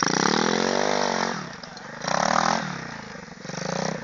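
Pit bike engine revving up and easing off, a long rise and fall in the first second or so and a shorter burst about two seconds in, then running quieter.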